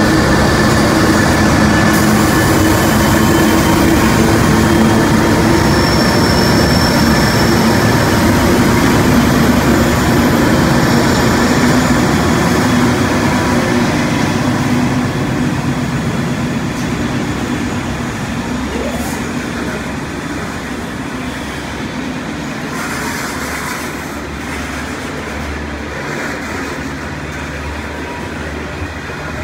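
Several diesel-electric freight locomotives pass close by, their engines loud with a steady low drone. About halfway through the locomotives have gone by and the sound drops to the rolling of the coal hopper wagons behind them.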